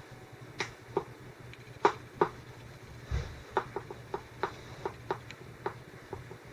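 Irregular sharp taps of raindrops striking the security camera's housing during a storm, one to three a second, over a steady low hum, with a brief low thud about three seconds in.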